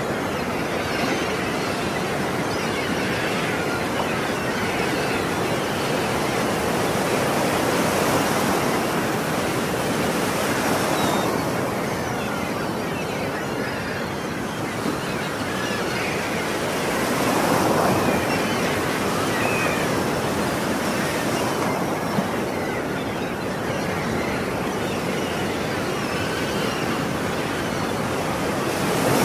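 Ocean surf: waves breaking and washing ashore in a continuous rush that swells every few seconds, with a louder surge near the end.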